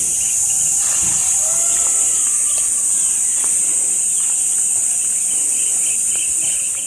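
Insects calling: a loud, steady, high-pitched buzz over a lower chirping that pulses several times a second. A faint gliding call sounds briefly about a second in.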